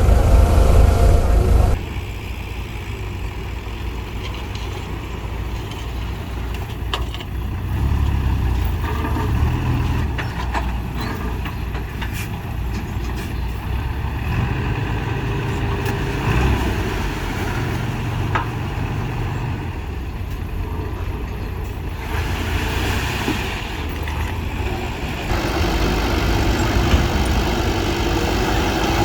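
Heavy diesel earthmoving machinery running, with scattered clanks. The sound changes abruptly about two seconds in and again twice near the end.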